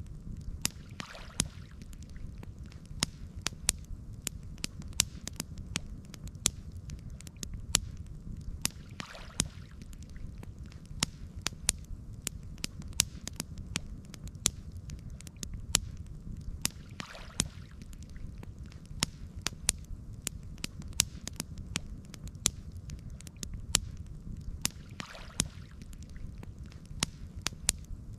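Campfire burning: frequent sharp crackles and pops over a steady low rumble, with a soft swell of noise about every eight seconds.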